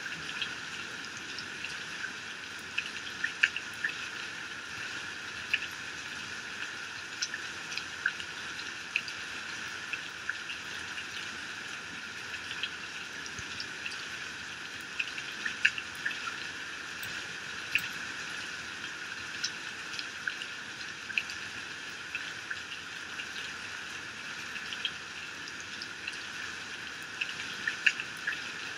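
Heavy rain falling steadily, with many sharp, irregular drop impacts ticking close by.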